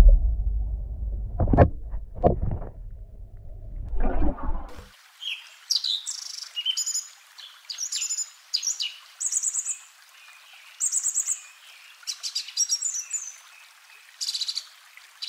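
Birds chirping and singing in short, repeated high calls, which begin abruptly about five seconds in. Before that there is a low rumble with a few sharp hits.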